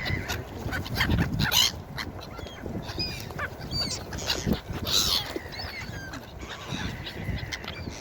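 Gulls calling: many short, overlapping cries, loudest about a second in and again around five seconds, over a steady low rush of background noise.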